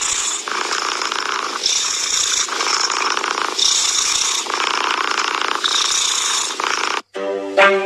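Domestic cat purring loudly close to the microphone, in a steady cycle that switches tone about every two seconds as the cat breathes in and out. It cuts off suddenly near the end.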